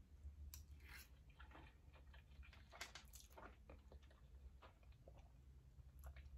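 Quiet, close-miked chewing and mouth sounds: a person eating, with many soft, irregular smacks and clicks.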